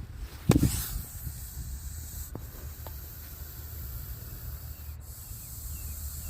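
Russell's viper hissing defensively as it is threatened: a loud hiss burst about half a second in, then a fainter steady hiss.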